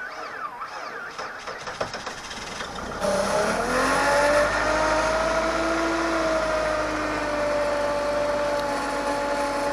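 2004 PT Cruiser's 2.4-litre four-cylinder engine cold-starting at −17 °F on a weak battery: the starter cranks for about three seconds, then the engine catches and settles into a fast cold idle. The running engine doesn't sound too healthy.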